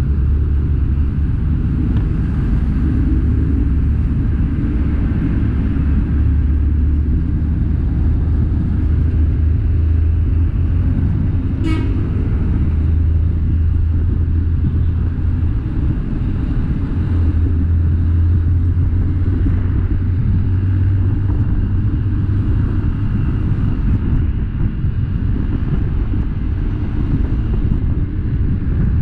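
Military truck engine running steadily on the move, a continuous low drone with road noise, and one brief sharp click about twelve seconds in.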